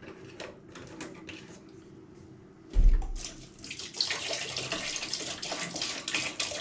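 Liquid pouring and splashing into a bucket of cleaning solution, after a thump about three seconds in.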